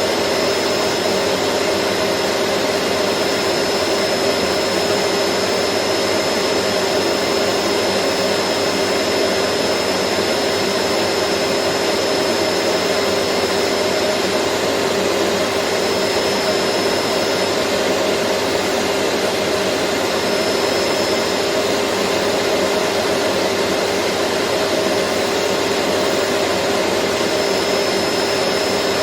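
Vacuum cleaner motor running steadily with an even rushing hiss and a constant hum, and a faint high whine that fades out and comes back partway through.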